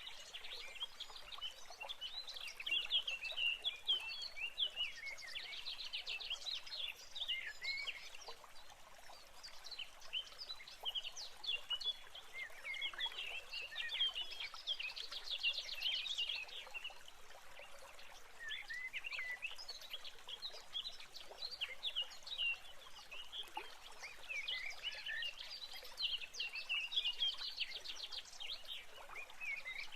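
Many birds chirping and singing at once, a continuous chorus of short, quick high calls over a faint steady hiss.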